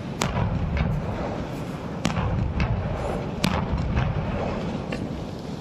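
Fireworks bursting: several sharp bangs at irregular intervals over a continuous low rumble of booms.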